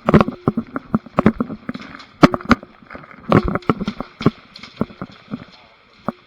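Airsoft guns firing in an exchange of fire: irregular sharp pops and cracks, single shots and short strings, some close and loud, others fainter.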